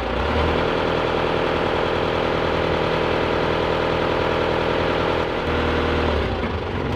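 Isuzu Elf truck's diesel engine running steadily, its note shifting about five and a half seconds in.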